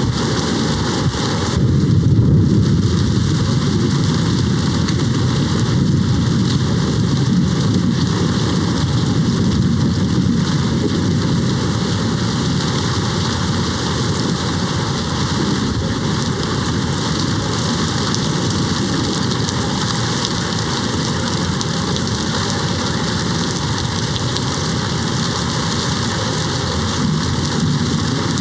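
Steady heavy rain, with low rolling thunder rumbling that swells about two seconds in and again faintly near the end.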